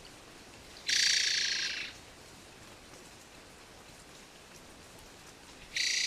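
Javan trogon calling twice, about five seconds apart: each call is a fast, rattling phrase about a second long that fades toward its end. A faint steady hiss lies underneath.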